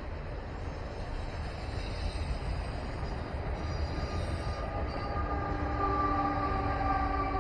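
Freight train rolling past with a steady low rumble of cars on the rails; from about five seconds in a set of steady pitched tones grows louder as the mid-train diesel locomotive (DPU) draws near.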